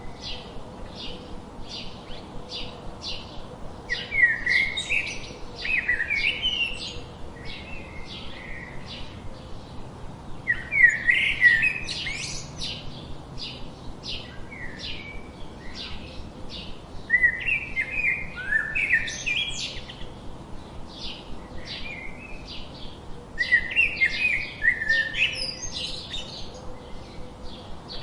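Birds singing: a steady run of short, high chirps, several a second, with a louder warbling phrase breaking in about every six or seven seconds.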